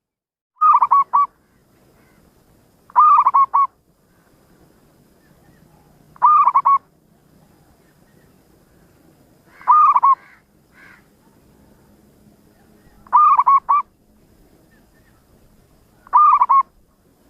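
Zebra dove (perkutut) cooing: six short, rapidly pulsed coo phrases, evenly spaced about three seconds apart.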